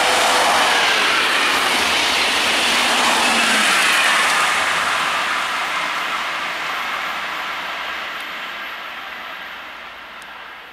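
Renfe AVE high-speed train passing at speed, with a tone that drops in pitch as it goes by. It is loud for the first few seconds, then fades steadily as the train draws away.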